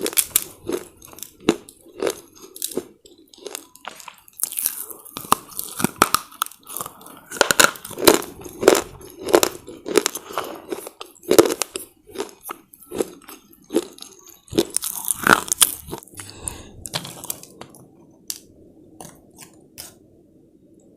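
A person biting and crunching hard, brittle chips of slate close to the microphone, with rapid sharp crunches. The crunches thin out to softer chewing after about sixteen seconds.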